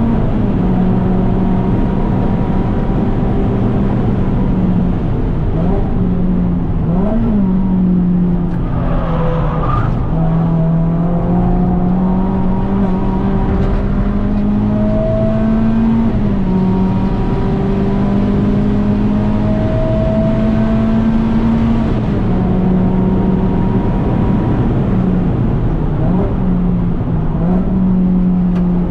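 Renault Clio 197 Cup's 2.0-litre four-cylinder engine pulling hard at high revs on track. Its pitch climbs steadily in each gear and drops back at each of several gear changes. A brief falling squeal comes about a third of the way in.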